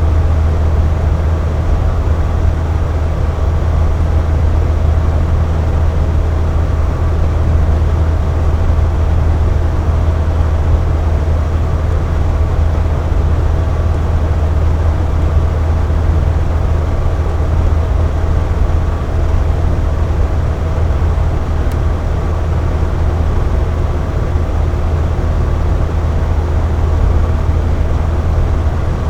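Air conditioner running steadily: an even low hum with a faint higher tone and a light whoosh of airflow.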